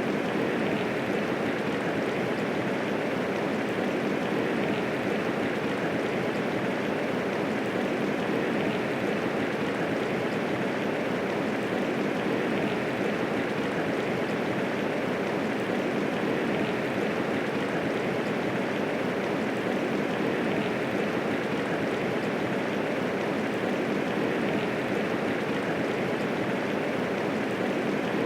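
Steady medium rainfall, an even hiss of falling rain without thunder.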